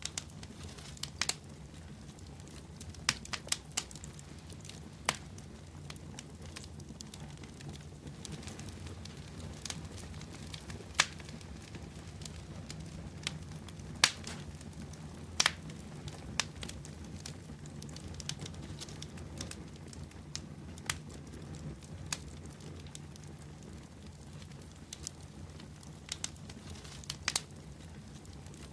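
Wood bonfire burning: a steady low rumble of flames with irregular sharp crackles and pops from the burning wood every second or two.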